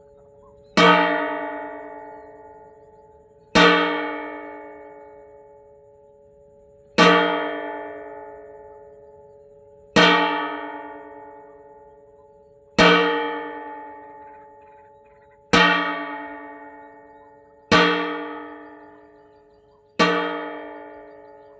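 A metal cooking pot struck hard eight times, roughly every three seconds, each blow ringing out with several clear tones that fade before the next: pot-banging to scare birds off a rice paddy.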